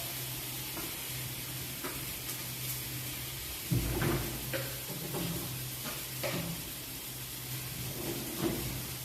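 Food sizzling in a frying pan, a steady hiss over a low steady hum, with a few light knocks of utensils or cookware.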